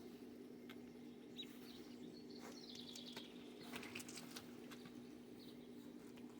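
Faint outdoor ambience: a steady low hum with a few scattered bird chirps, and a handful of light clicks near the middle.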